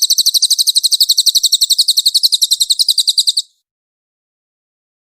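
Cililin songbird singing a loud, rapid, even trill of high notes, roughly fifteen to twenty a second, that stops abruptly about three and a half seconds in.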